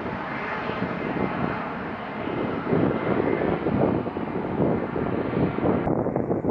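Jet airliner engines running with a steady rushing noise; the higher part of the sound cuts off suddenly near the end.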